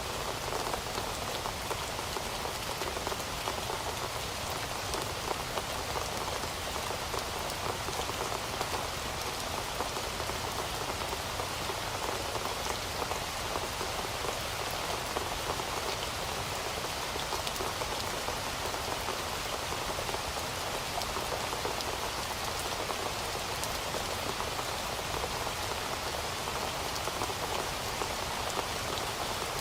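Heavy rain falling steadily, a dense even patter of drops on a hard surface.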